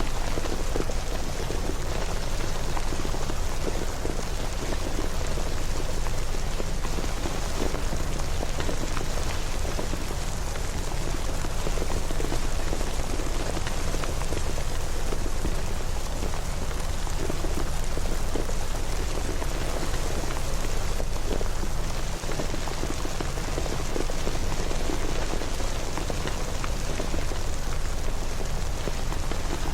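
Steady rain: an even hiss with a dense patter of drops.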